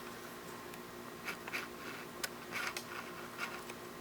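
Quiet handling noises from a CD-ROM drive being held and moved: a few light scrapes and rustles and a single sharp click about two seconds in, over a steady low hum.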